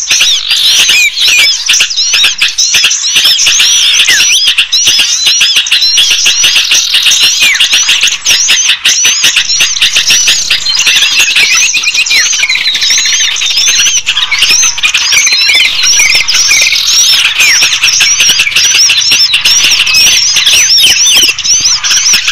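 Dense, loud, unbroken chorus of many small birds' chirps and squeaky calls, overlapping rapidly: a small-bird lure (pikat) recording meant to draw small birds in.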